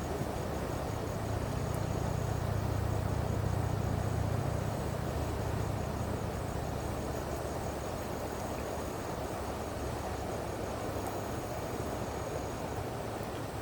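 Steady rushing of a shallow river, with a low rumble that swells for a few seconds near the start and then fades. A faint, high, pulsing tone runs over it.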